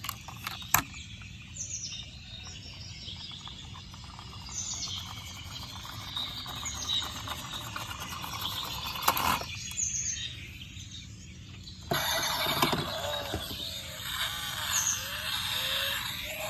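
Birds chirping: short, high calls every second or two over a steady hiss, with the background changing abruptly twice in the second half.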